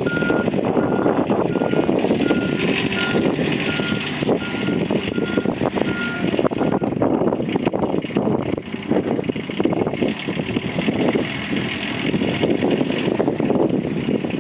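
John Deere Pro-Gator utility vehicle running and reversing, its backup alarm giving a steady single-pitched beep about one and a half times a second over the engine noise. The beeping stops about six seconds in while the engine keeps running.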